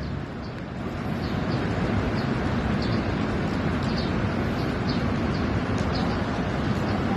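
Fast-flowing floodwater rushing steadily, with faint short high chirps recurring about every half second.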